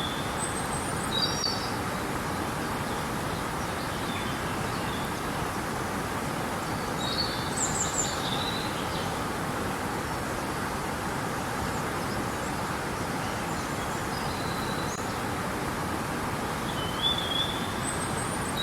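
Steady rush of flowing river water, with short high bird chirps and trills over it about a second in, around seven to eight seconds in, and again near the end.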